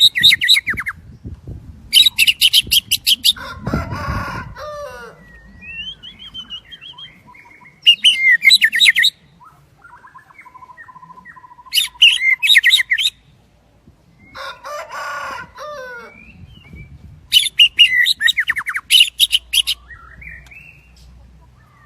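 White-rumped shama singing: loud bursts of rapid, high, ringing notes every few seconds, with quieter, lower warbled phrases between them.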